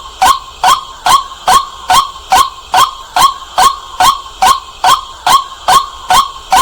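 White-breasted waterhen calling loudly, one sharp note repeated at a very even pace of about two and a half a second.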